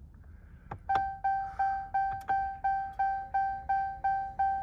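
The Ram pickup's dashboard warning chime, set off as the ignition is switched on. After a click, it beeps in even pulses about three times a second.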